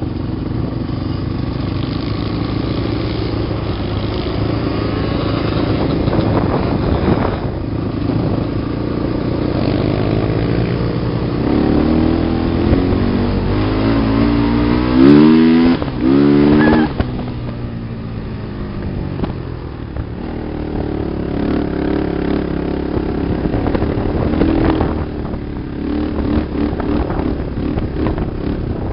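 Off-road sand vehicle engines running, revving up and down in pitch with the loudest rev about halfway through.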